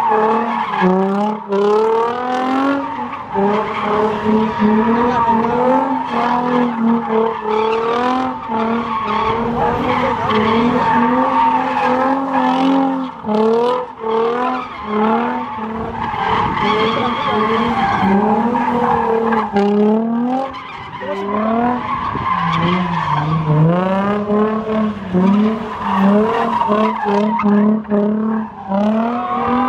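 Infiniti G35's 3.5-litre V6 driven hard, its pitch climbing and dropping again and again with throttle and shifts, with tyres squealing.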